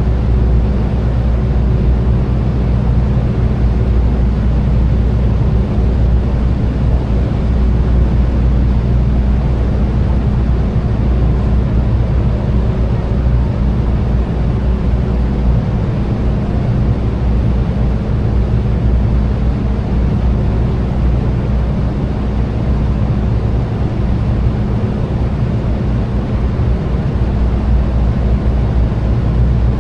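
Tour boat's engine running steadily: a constant low drone over an even hiss.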